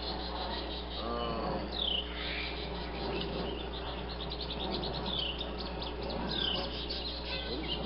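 Songbirds calling: a clear down-slurred whistle three times, a few seconds apart, over a rapid high-pitched chirping trill.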